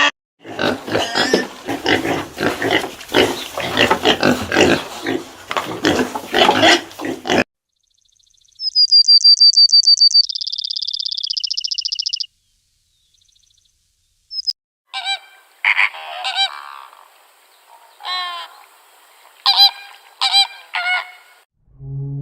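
A series of different animal calls. A dense, noisy chorus of honking calls comes first, then a high rapid trill that drops to a lower held note, and then a run of separate short calls with pauses between them.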